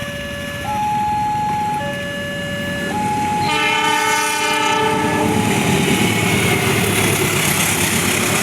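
Level-crossing warning alarm alternating between a low and a high tone about once a second. About 3.5 s in, a train horn sounds one chord of several pitches for about two seconds, as the train arrives. It is followed by the loud, rising rush of the train passing.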